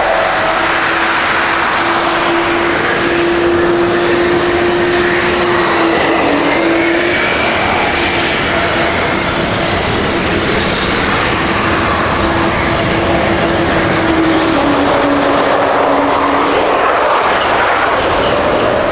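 Boeing 777-200ER twin jet engines running at high thrust for takeoff, a steady loud roar with a droning engine tone that drops slightly in pitch late on.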